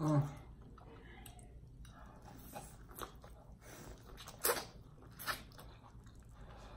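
Close-up eating sounds: biting into and chewing boiled corn on the cob, with a few short wet crunches, the loudest about four and a half seconds in.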